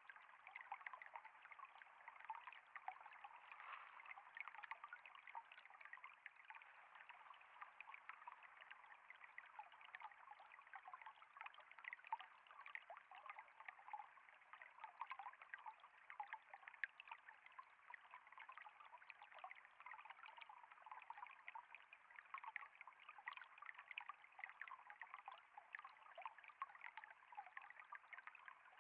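Faint, steady trickle of flowing water, a continuous flow full of small quick splashes and bubbles.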